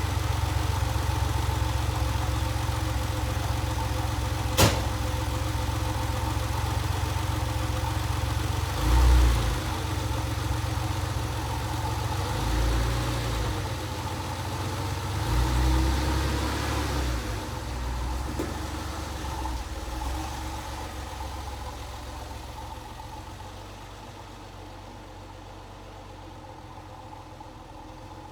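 Car engine idling after a cold start, heard from outside the car. There is a single sharp click about four and a half seconds in and a few brief swells in the middle, and the sound grows quieter over the last few seconds.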